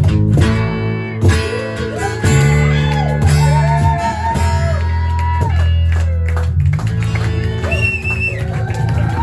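Country band playing the song live: strummed guitars under a lead melody whose long notes slide and bend in pitch.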